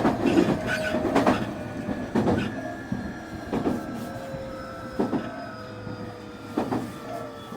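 Semboku 9300 series train running, its Hitachi SiC VVVF inverter giving several steady whining tones under wheels clacking over rail joints. The clacks come further and further apart and the sound gets quieter as the train slows.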